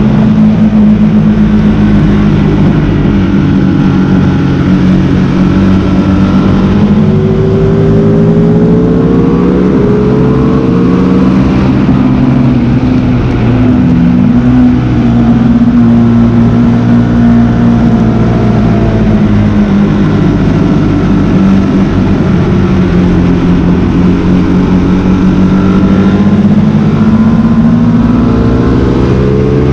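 Motorcycle engine at speed on a race track, its pitch rising and falling as it accelerates, changes gear and slows for corners, with a steady rush of noise underneath.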